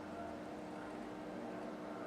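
Steady background hiss with a constant low hum throughout: room tone, with no distinct event.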